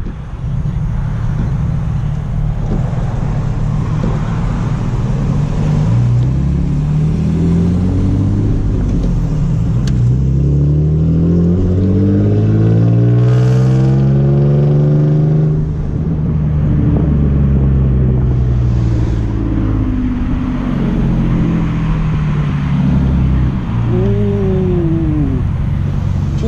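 Car engine accelerating hard through the gears in a roll race. Its pitch climbs, drops at each shift about every three to four seconds, and climbs again. Near the end come several quick rises and falls in engine pitch.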